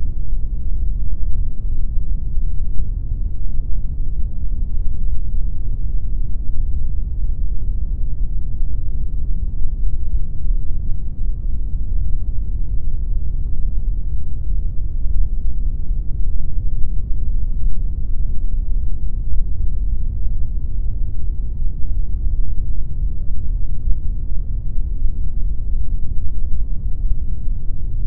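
Steady synthetic pink noise: an even, unchanging rush with most of its weight in the deep low end and little treble.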